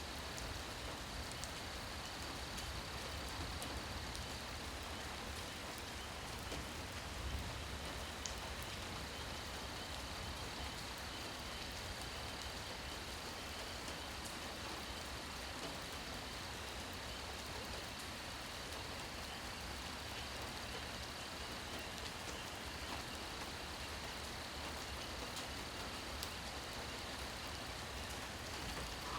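Steady rain falling at night, a continuous even hiss with scattered individual drops ticking close by.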